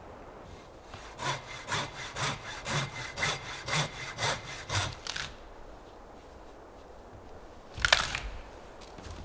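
Hand saw cutting through wood, about nine even back-and-forth strokes at roughly two a second, stopping about five seconds in. A sharp, loud crack follows near the end.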